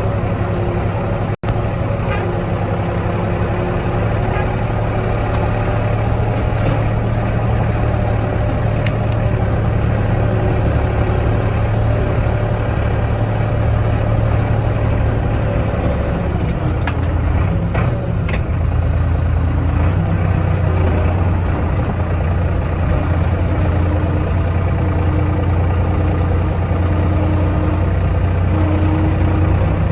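Kioti DK65 tractor's diesel engine running steadily under work, its engine note shifting a little about halfway through.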